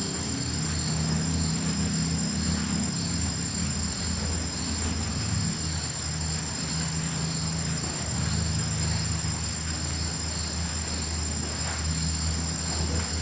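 Night insects, crickets and grasshoppers, calling over a steady low rumble: one high, unbroken trill alongside a softer chirp that repeats about twice a second.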